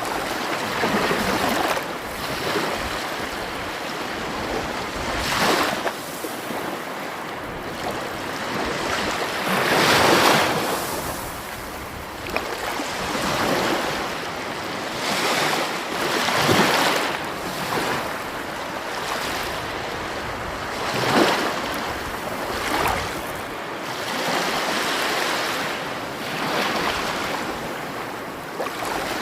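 Sea waves breaking on the shore, a steady wash of surf that swells every few seconds.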